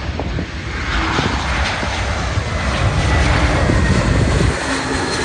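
Landing airliner passing low overhead on approach. Its engine noise builds about a second in and holds loud, with a faint high whine, easing slightly near the end.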